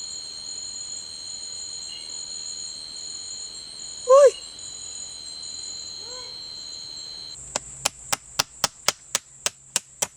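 Steady high-pitched buzzing of a forest insect chorus, with one loud short animal call that rises then falls in pitch about four seconds in. Just past halfway it cuts abruptly to rapid chopping on wood, about four strokes a second.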